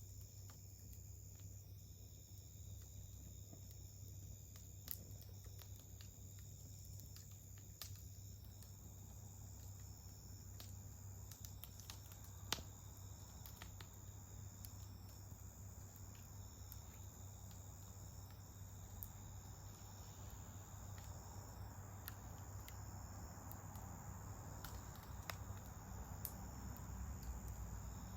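Several insects chirring in steady high trills that pause and resume, with scattered sharp pops and crackles from a wood fire and one louder pop about twelve seconds in.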